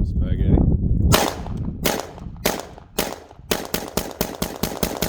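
Semi-automatic AR-15 rifle firing after a second of low rumble: four shots about half a second apart, then a quick string of about ten. The rifle cycles round after round despite being wet from a night left out in the snow.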